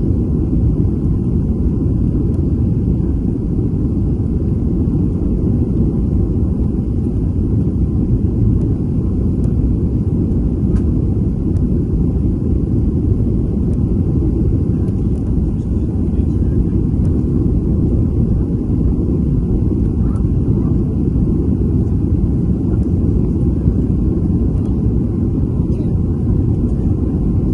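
Steady low rumble of a jet airliner during its landing: engine and airflow noise that holds even throughout.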